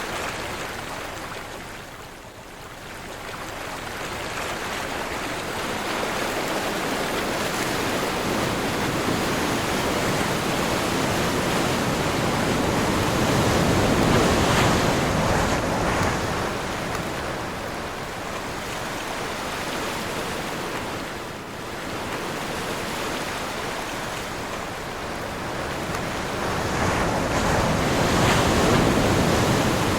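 Ocean surf washing in with wind blowing, swelling and ebbing. Waves build loudest about halfway through and again near the end.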